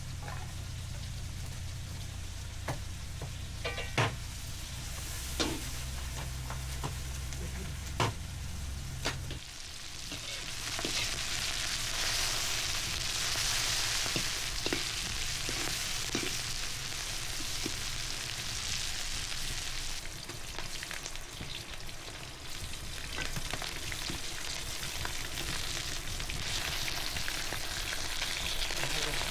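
Food frying in a pan, with a steady sizzle that grows louder about ten seconds in. A few sharp knocks, like a utensil against the pan, come early, over a low hum that stops about nine seconds in.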